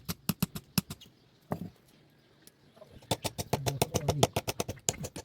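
Light hammer taps on metal in quick runs: a short burst at the start, a single tap, a pause, then a long fast run of taps several a second.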